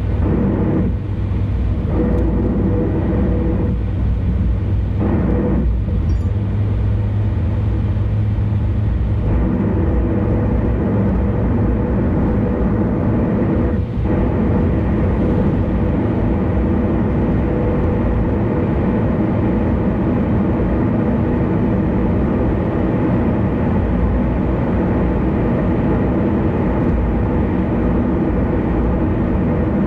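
Steady road and engine noise of a car cruising on an expressway, with a constant hum under the tyre noise.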